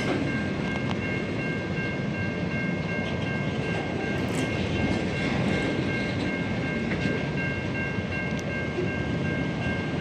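Long freight train's wagons rolling past close by, a steady rumble of wheels on rail with a continuous high-pitched whine over it.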